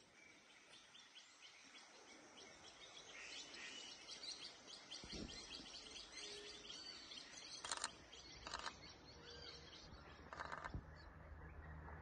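Faint birds chirping in quick repeated notes, with a couple of low bumps around the middle and near the end.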